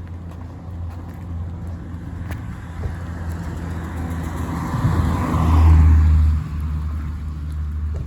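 A car drives past on a wet road. Its tyre hiss and engine swell to a peak about five to six seconds in, then fade, over a steady low rumble.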